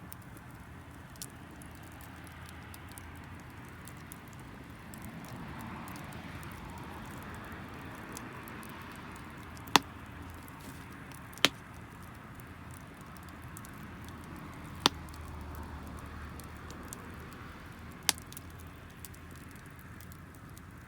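Wood campfire of damp firewood burning with a steady faint hiss and small crackles, and four sharp pops in the second half.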